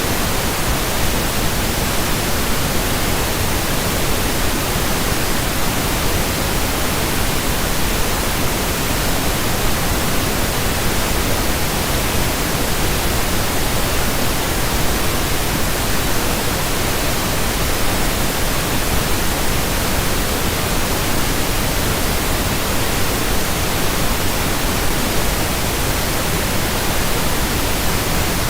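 Steady pink noise: an even, unchanging hiss across the whole range of pitch.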